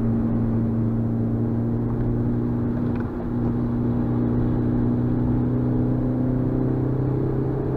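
Suzuki Swift Sport's 1.6-litre four-cylinder engine running under steady load, heard from inside the cabin together with road noise. The engine note briefly dips about three seconds in, then rises slightly near the end.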